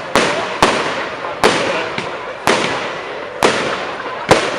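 Firework display: about six sharp bangs of exploding aerial shells, roughly one a second, each trailing off in a crackling fizz.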